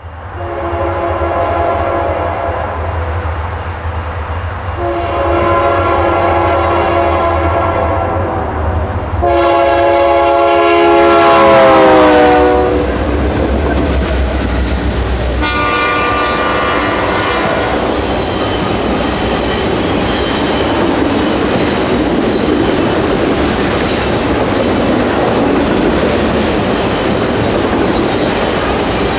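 Diesel freight locomotive's air horn sounding four blasts for a grade crossing, three long and a shorter last one, over the low rumble of its engines. The third blast drops in pitch as the locomotive goes by. After that comes the steady rolling noise and clickety-clack of passing freight cars.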